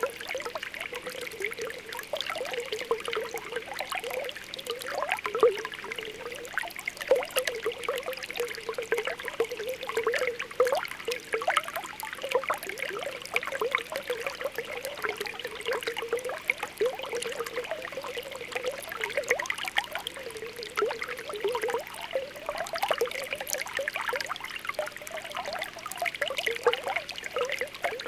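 Spring water welling up and bubbling, with a steady run of small popping and gurgling bubbles.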